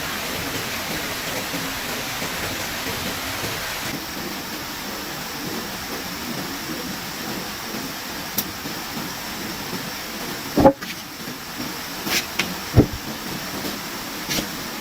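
A steady, even hiss of outdoor noise, like rain or rushing water, that eases a little about four seconds in. A handful of sharp knocks or clicks come in the second half, the loudest about ten and a half seconds in and another about two seconds later.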